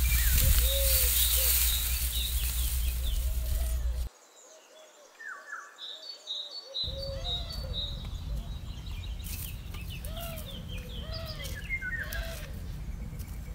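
Birds calling and chirping repeatedly: short arching notes and higher chirps. A low rumbling noise runs under the calls in the first four seconds and again from about seven seconds in.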